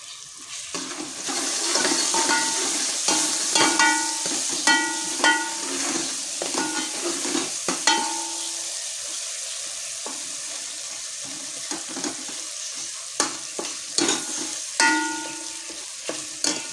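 Curry masala sizzling in oil in an aluminium pot, stirred with a steel ladle that scrapes and clinks against the pot. It is the frying stage where the oil separates from the masala.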